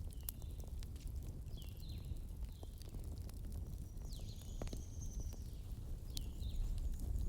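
Wood fire burning in a fireplace: a low steady rumble with irregular sharp crackles and pops. Several short high chirps that fall in pitch, and a thin high whistle about four seconds in, sound over it.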